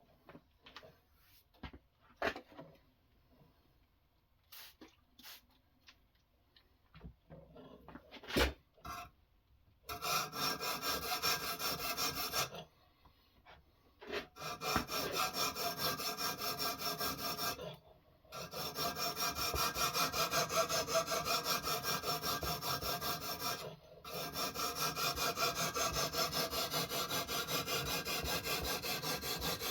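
A sharpening stone on a guided knife-sharpening system is rubbed quickly back and forth along a knife edge, making a steady rasping with a fast stroke-by-stroke rhythm. It starts about ten seconds in, after some light clicks and knocks of handling, and stops briefly a few times.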